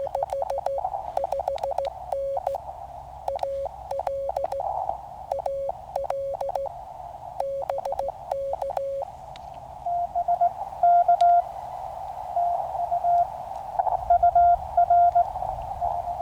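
Morse code tones from a QCX mini CW transceiver, keyed on and off over steady receiver hiss. For about the first nine seconds one signal sends at a lower pitch, then a second signal takes over at a slightly higher pitch.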